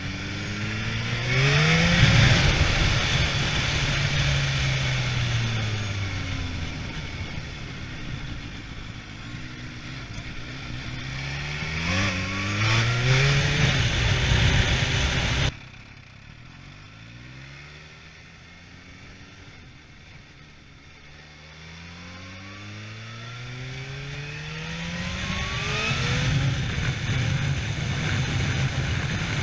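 Kawasaki H2 SX motorcycle engine accelerating and slowing. Its pitch climbs sharply about two seconds in and again around twelve seconds, falling away in between, with a rushing noise over it. Midway the sound drops suddenly to a quieter, duller level, and the engine climbs again through the last part.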